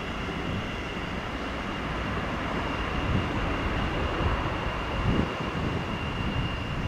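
NS Sprinter New Generation (CAF Civity) electric multiple unit running on the track: a steady rumble with a faint steady high tone and a few low thumps.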